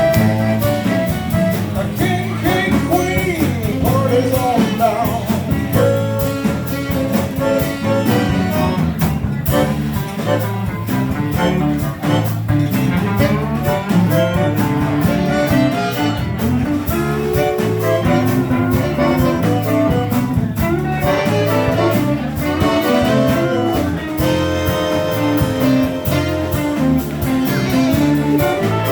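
A zydeco band playing live music with a steady beat.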